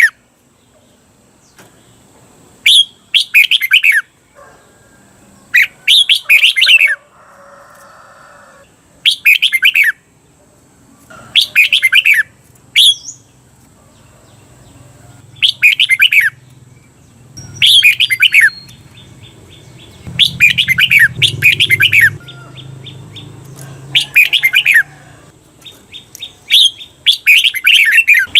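Red-whiskered bulbul singing its doubled song phrases (the "เบิ้ล" phrases used to train caged bulbuls). Loud, quick bursts of notes repeat about every two to three seconds.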